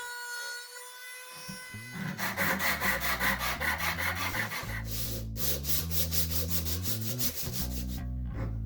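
Wood being sanded by hand: abrasive rubbed back and forth over a wooden gavel in quick, even strokes, starting about two seconds in.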